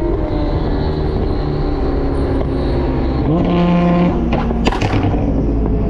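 Ferrari 488's twin-turbo V8 with its aftermarket exhaust running, then revving up about three seconds in and holding the higher revs, with a quick burst of sharp exhaust pops a little later.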